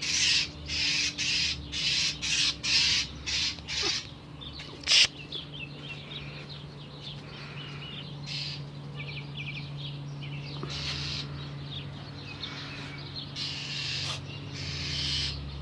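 An agitated bird's harsh, scolding alarm calls, repeated about twice a second for the first four seconds, then a sharp knock about five seconds in that is the loudest sound. Softer chirps follow, and the harsh calls start again near the end, over a steady low hum.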